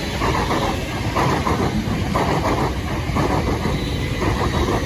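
A pair of class 455 electric multiple units passing at speed, their wheels clattering over the rail joints in a regular rhythm of about one beat a second over a steady rumble.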